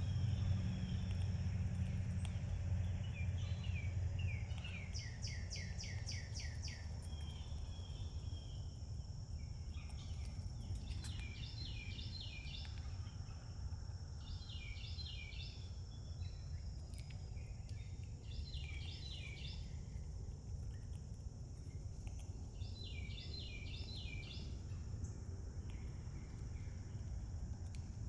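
Small songbird singing short phrases of rapid, stuttering high notes, repeated every few seconds. Under it run a steady high-pitched hum and a low outdoor rumble.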